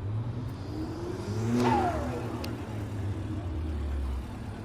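A car driving past close by, loudest about a second and a half in, its engine note dropping in pitch as it goes by, over a steady low engine rumble.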